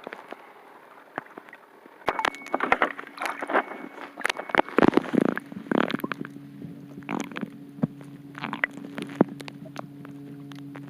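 Muffled knocks and clicks, irregular and sharp. About six seconds in, a steady low hum joins them.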